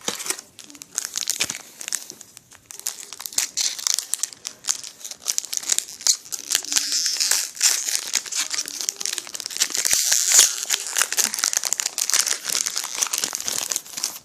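Foil booster-pack wrapper being crinkled and torn open by hand, a busy irregular crackling that goes on almost without pause.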